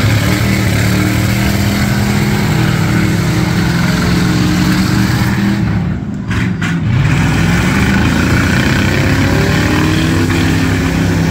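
Demolition derby cars' V8 engines running loudly, revving up and down in pitch, with a short lull about six seconds in before they pick up again.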